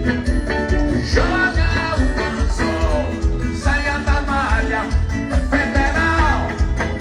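Live axé band music played through a trio elétrico's sound system: a heavy pulsing bass beat with a melodic lead line over it.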